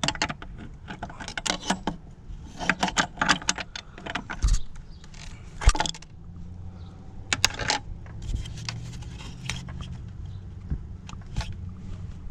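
Metal hand tools and parts clinking and tapping in a car's engine bay: an irregular string of sharp clicks and knocks, with two louder knocks a little after the middle.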